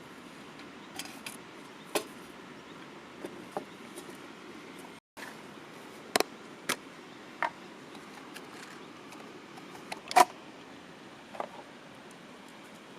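Scattered short, sharp clicks and taps, about a dozen at irregular intervals and the loudest about ten seconds in, over a steady faint hiss, with a moment of total silence just after five seconds.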